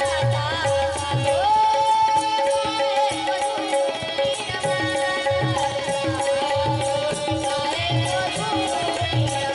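Devotional bhajan sung by a male singer with a melodic, wavering voice over a steady held note, backed by a steady hand-drum beat and the jingling of a khanjiri.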